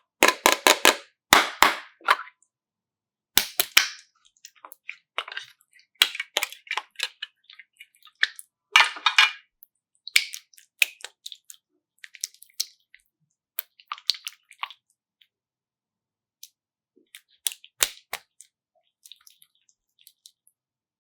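Irregular clicks, taps and short crackles from small objects being handled. They are denser in the first half and thin out to a few isolated clicks near the end.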